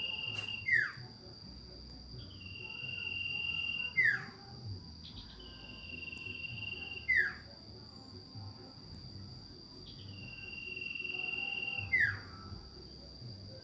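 A sirtu bird calling over and over, each call a long level whistle followed by a quick, louder falling whistle, four times. A steady high insect-like tone runs underneath.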